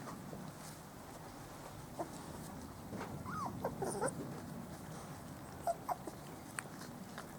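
Four-week-old Spanish Water Dog puppies giving short, high, wavering cries: a cluster about three seconds in, then a few brief squeaks later on.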